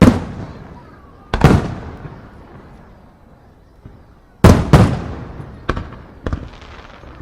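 Aerial fireworks shells bursting: a loud boom at the start, another about a second and a half in, then four more in quick succession between about four and a half and six and a half seconds in, each trailing off in a long rumbling echo.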